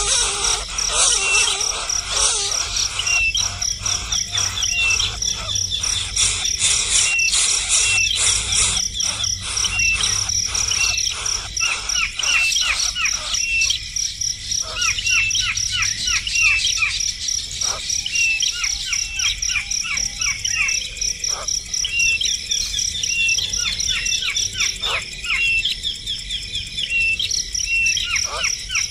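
Small birds chirping: short calls repeated about once or twice a second and quick falling chirps, over a steady high-pitched insect trill.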